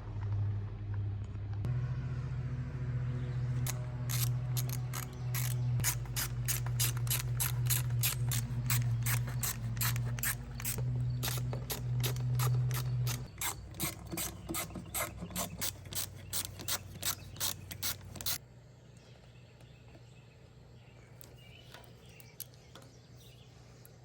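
Hand ratchet wrench clicking a few times a second as it turns, over a steady low hum; the hum drops away about halfway through and the clicking stops about three quarters in.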